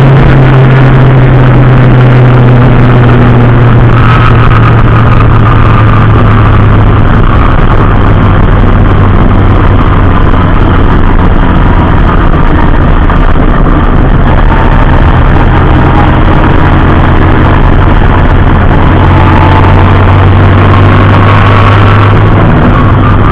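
Race car engine heard onboard, running loud and steady at moderate revs. Its pitch dips slightly about four seconds in, then holds even.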